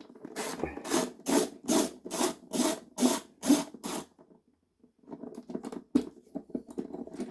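A socket ratchet worked back and forth on a 10 mm bolt, a scratchy ratcheting burst with each stroke about twice a second for several seconds. After a short pause, irregular light clicks and rattles follow.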